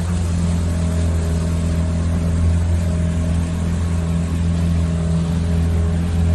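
Boat motor running steadily at a constant speed, a low even drone.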